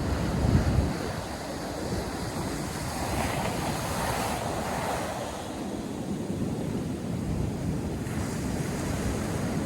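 Ocean surf breaking on a sandy beach, a wave washing in and swelling about halfway through. Wind rumbles on the microphone, strongest in the first second.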